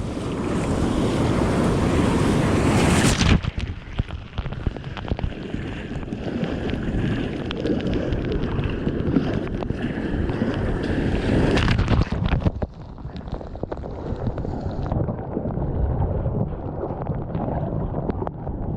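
Breaking surf and water splashing around a kayak as it is launched out through the waves, with wind buffeting the microphone. The sound turns suddenly muffled about three seconds in and drops again later, while splashing crackles continue.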